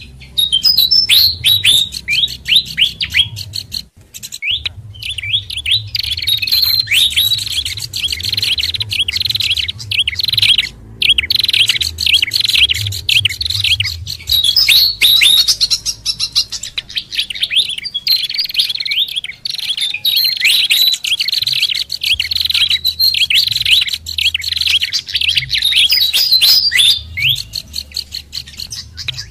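Bird-lure recording layering the calls of a fantail flycatcher, a babbler and a prinia: a dense, rapid run of high chirps and short down-slurred notes with hardly a pause, over a low rumble.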